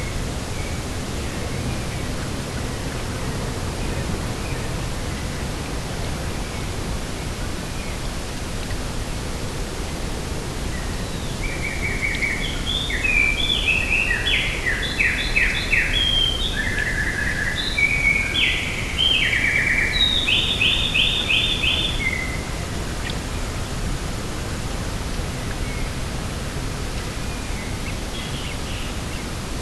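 A songbird sings a varied song of quick chirps and rapid trills for about ten seconds in the middle, over a steady rushing outdoor noise.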